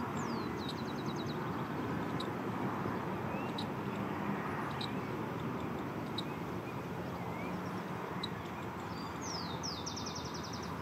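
High bird calls over a steady low background rumble: a quick falling note followed by a fast run of high ticks, about half a second in and again near the end, with scattered short chirps between.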